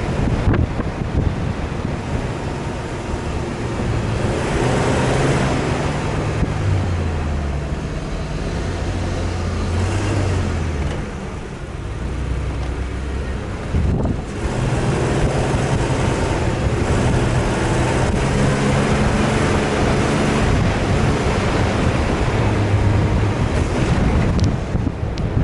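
Off-road 4x4 engine revving up and down, its pitch stepping between gears and load, with heavy wind buffeting the microphone.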